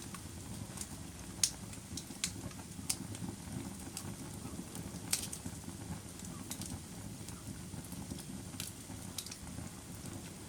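Fire burning in a fireplace: a low steady rumble of flames with irregular sharp crackles and pops, roughly one every second or so.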